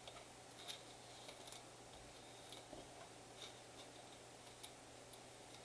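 Near silence with faint scattered clicks and light rustles of trading cards and packaging being handled.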